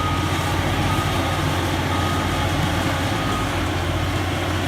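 Diesel engine of heavy machinery running steadily, with a high back-up alarm beeping in four long beeps that stop about three and a half seconds in.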